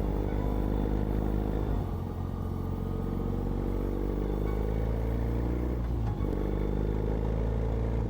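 BMW R18 boxer-twin motorcycle engine running. Its pitch drops about two seconds in, then climbs again, with a short break about six seconds in.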